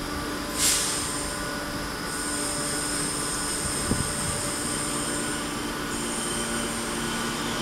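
Electric multiple-unit train rolling slowly into a platform, its wheels squealing in a steady high tone over a low running hum. There is a short hiss less than a second in.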